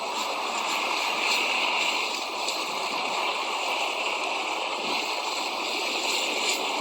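Steady rushing hiss of a snowstorm outdoors, with wind and blowing snow, even and unbroken, with no clear footstep rhythm.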